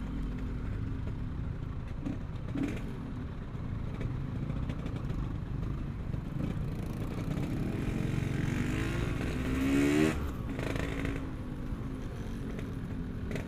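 Yamaha RX-King two-stroke single-cylinder motorcycle engine running on the road. It revs up from about eight seconds in to a peak near ten seconds, then drops back.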